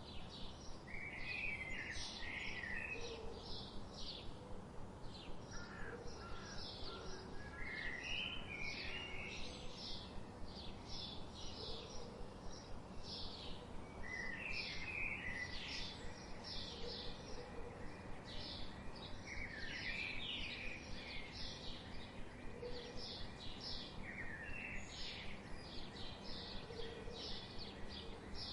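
Birds chirping: a steady run of short, high chirps about three a second, with a lower warbled phrase from another bird every five seconds or so.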